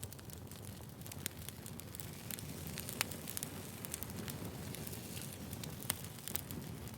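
Wood fire burning: a steady low rush with frequent sharp crackles and pops of burning firewood, the loudest pops about three seconds in and again near six seconds.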